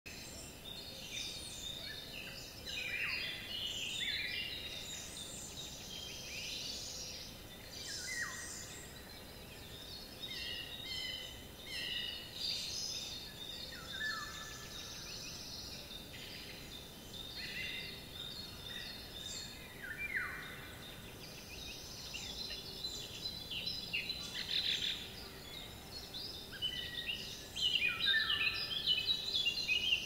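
Eurasian golden oriole singing, with calls of a great spotted woodpecker, among many overlapping bird calls that grow busier and louder near the end.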